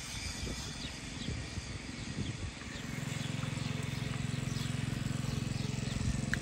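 Birds chirping in short, high calls over a low steady hum that grows louder about three seconds in.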